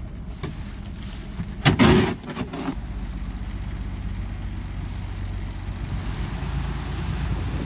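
Boat engine running steadily under way, a low hum. About two seconds in comes a loud rushing burst lasting about a second, wind buffeting or water splashing.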